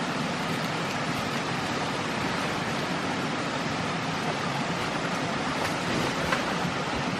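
Steady rushing noise of water, even throughout.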